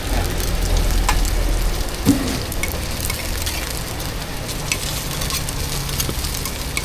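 Egg pancake sizzling in oil on a hot griddle, a steady frying hiss with scattered sharp clicks over a low steady hum.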